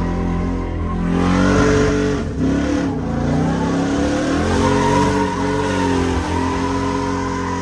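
A truck engine revving hard, its pitch rising and falling several times, over a rushing hiss of spinning tires that sets in about a second in.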